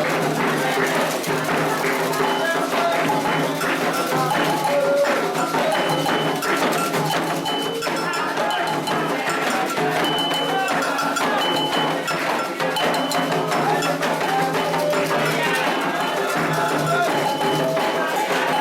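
Candomblé ritual music: voices singing together over drums, with a bell struck again and again in rhythm.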